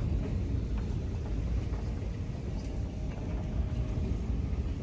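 Strong wind buffeting the microphone: a low, fluttering rumble that rises and falls with the gusts.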